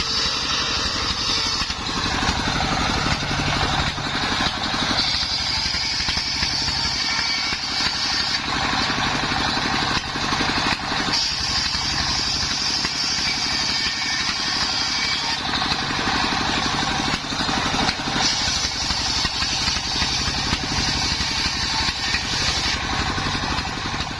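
Engine-driven homemade circular saw running steadily while cutting wood into battens. A higher whine of the blade biting the timber comes in for a few seconds at a time, four times, between steadier stretches of engine and blade running.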